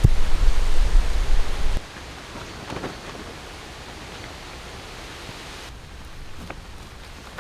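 Strong storm wind buffeting the microphone with a heavy low rumble, cutting off abruptly about two seconds in. A quieter steady hiss follows, with a few faint rustles.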